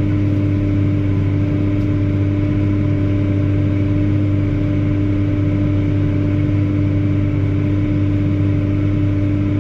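Versatile 2375 four-wheel-drive tractor engine running steadily under load while pulling a dirt-moving dozer blade, a constant drone with no change in pitch.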